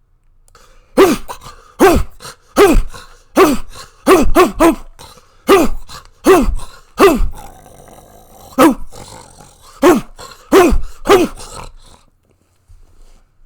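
A big dog barking angrily, about fourteen loud barks each dropping in pitch, some coming in quick runs of two or three, stopping about two seconds before the end.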